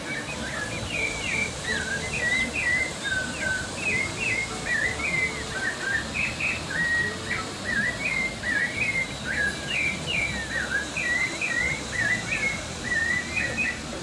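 A songbird singing a long, unbroken run of quick, varied whistled chirps, over the steady rush of water spilling through rapids.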